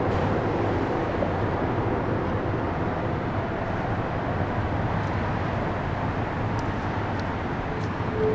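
A train rolling past with a steady rumble.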